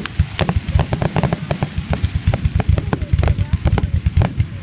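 Fireworks display in a rapid, continuous barrage: many booms and sharp bangs every second over a deep rumble.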